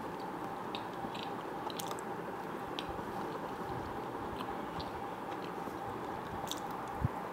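Close-miked chewing of chocolate cake topped with a Snickers-type chocolate bar, with scattered small crunches and mouth clicks, over the steady whir and faint hum of an electric fan. A soft thump near the end.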